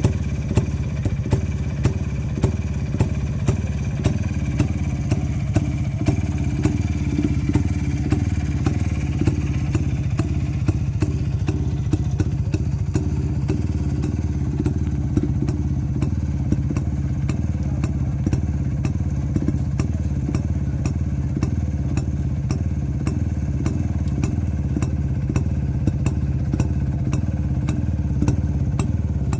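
Jawa two-stroke motorcycle engine running steadily, with sharp regular ticks over the engine note that come faster in the second half.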